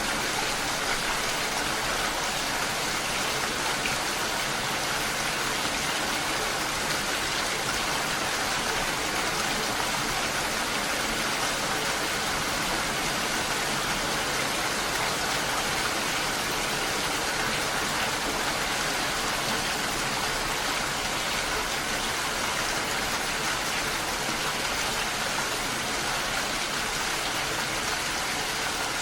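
Steady rain, an even, unbroken hiss that does not let up.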